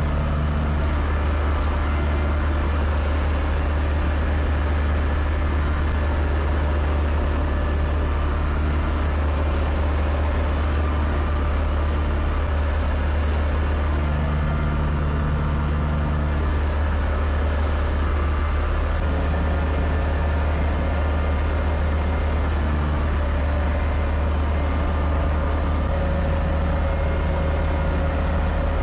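Kubota tractor's diesel engine running at a steady speed, a constant low drone.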